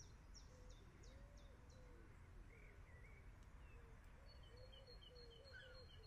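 Near silence with faint bird calls: a run of quick high chirps in the first two seconds and another run in the last two, over a low outdoor background hum.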